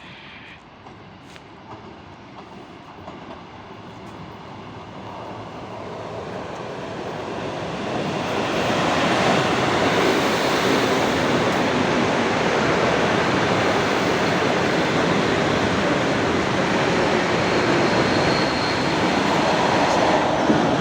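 Electric train approaching and passing close by: the rumble grows louder over about eight seconds, then holds loud and steady as the train runs past.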